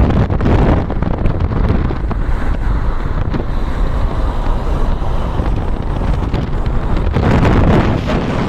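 Wind buffeting the microphone: a loud, gusty low rumble that swells near the end.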